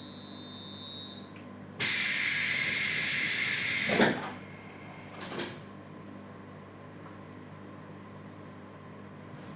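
Compressed air hissing loudly for about two seconds inside a 721-series electric train car, ending in a thud, with a second, softer thud a second later: typical of the car's air-operated doors or brakes working at a stop. A steady low hum of the car's equipment runs underneath, and a high steady tone stops about a second in.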